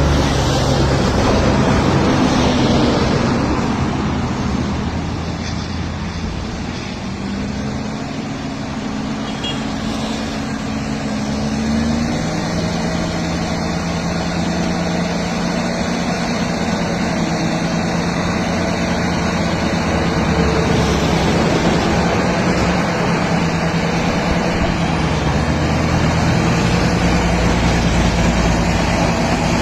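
Heavy earthmoving machine's diesel engine running continuously. Its note changes about eight seconds in and settles lower from about twelve seconds in, then holds steady.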